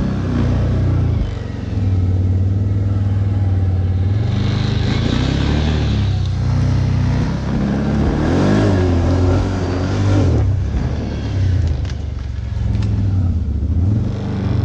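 ATV (quad bike) engine running under load and revving up and down, with a marked rise and fall in revs about eight to ten seconds in.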